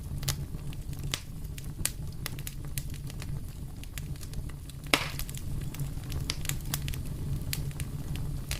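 Wood fire crackling in a fireplace: irregular sharp pops and snaps over a steady low rumble of the flames, with one louder pop about five seconds in.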